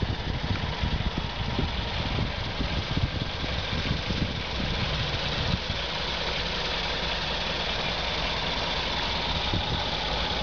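The 2012 Chevy Equinox's 2.4-litre Ecotec four-cylinder engine idling steadily, heard from under the car.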